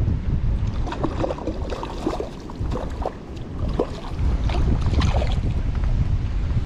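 Strong gusting wind buffeting the microphone: a heavy low rumble that eases off briefly partway through, with irregular short crackles over it.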